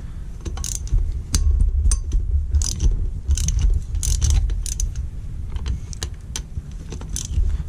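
Socket ratchet clicking in short runs, with metallic tool clinks, as the cylinder head bolts of a Kawasaki KLX110 are worked loose, over a steady low rumble.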